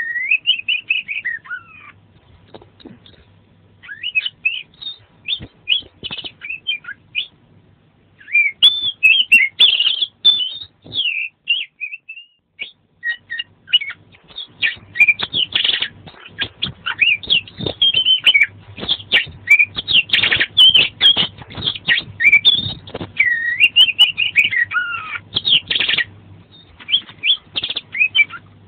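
An Oriental magpie-robin (kacer) singing loudly in long, rapid bursts of varied whistled glides, chirps and harsh clicking notes, its song full of mimicked phrases. It pauses briefly about two seconds in and again around eleven seconds in.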